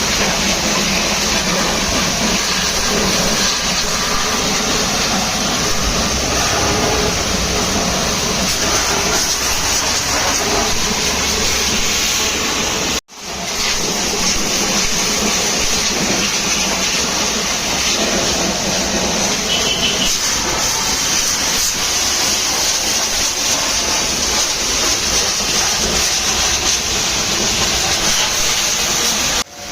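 High-pressure water jet hissing steadily as it sprays a truck, with a sudden brief break about thirteen seconds in.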